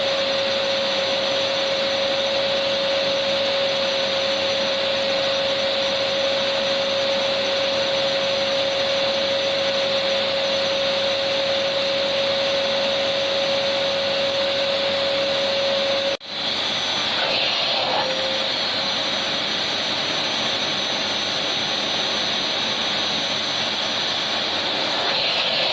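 Electric vacuum cleaner running steadily: an even rushing noise with a constant whine. The sound cuts out for an instant about two-thirds of the way through, and the whine is weaker after it.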